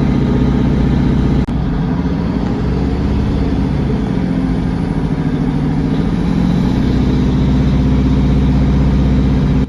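Underfloor Cummins diesel engines of a British Rail Class 150 diesel multiple unit running loud under acceleration, heard from inside the carriage. The low, steady engine note dips briefly about a second and a half in, then shifts slowly in pitch as the train pulls away.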